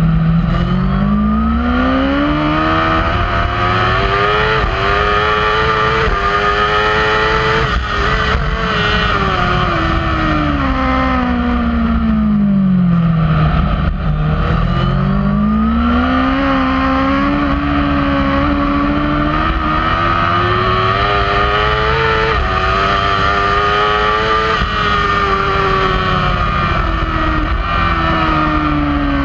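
Kawasaki superbike's inline-four engine at racing speed, heard from on the bike: the revs climb in steps through gear changes, fall away steeply for a corner about halfway, climb again and hold high, then fall once more near the end.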